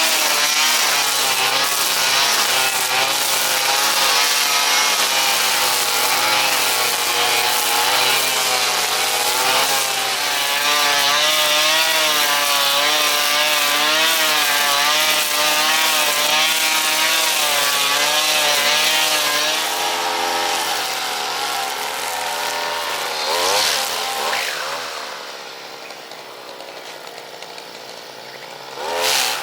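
Petrol brush cutter running at high speed, its engine note wavering up and down as it cuts grass. About 25 seconds in it is throttled back to a quieter idle, then revved once near the end.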